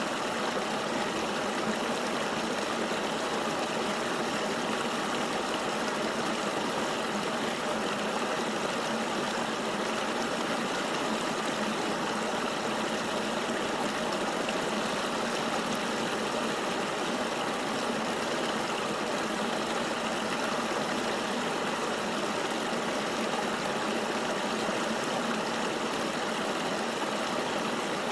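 Flowing river water: a steady, even rush with no changes or separate events.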